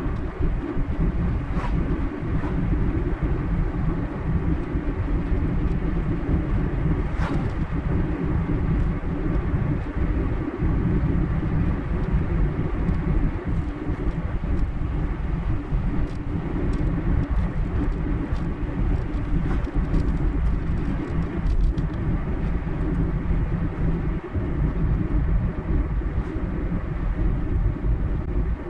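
Car driving at a steady speed: continuous low road and engine rumble with tyre noise.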